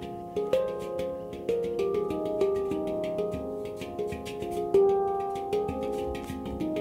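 Handpan in F minor being played: a steady run of struck notes, several a second, each ringing on and overlapping the next.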